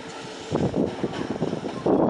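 JR West 207 series electric train running slowly toward the microphone on its way out of the station. From about half a second in, louder uneven noise comes over it, partly wind buffeting the microphone.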